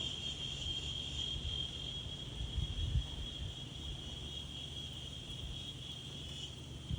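Steady, high-pitched insect chirring, with a low wind rumble underneath that gusts briefly a little before the middle.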